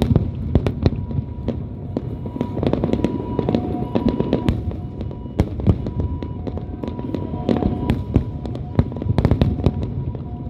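Fireworks display: many sharp bangs and crackles in quick, uneven succession over a continuous low boom of bursting shells.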